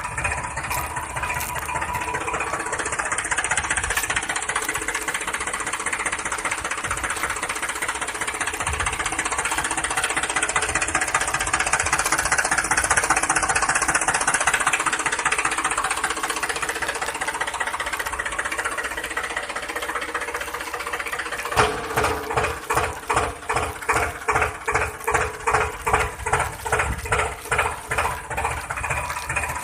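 Toy remote-control vehicle running with a steady mechanical whirr. About two-thirds of the way in it changes to a rhythmic chugging of about two pulses a second.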